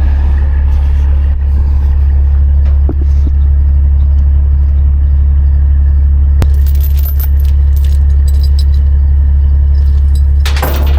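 A heavy diesel engine idling with a steady deep drone, while load chains clank and rattle: a sharp click about six and a half seconds in, rattling after it, and a louder clatter near the end.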